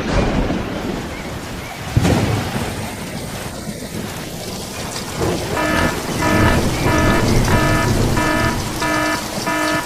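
Steady rain-like hiss with two sudden cracks near the start, then, from a little past halfway, an electronic alarm beeping about twice a second over the rain.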